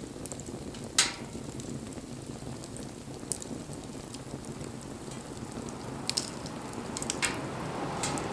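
Wood bonfire burning with a steady hiss and sharp crackling pops, the loudest about a second in and several more in the second half.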